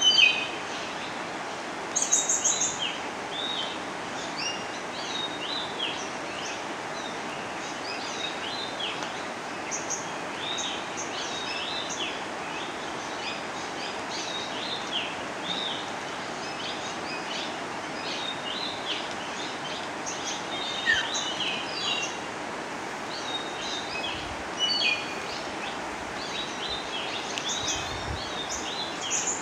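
Several birds chirping and calling in quick, overlapping short notes, with a few louder calls, over a steady rushing background noise.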